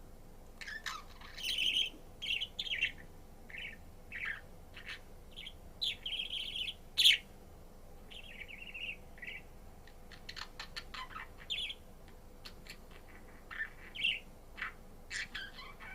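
Budgerigar chirping and warbling in irregular bursts of short, high calls, with one sharp, loud call about halfway through and a run of quick clicking notes soon after.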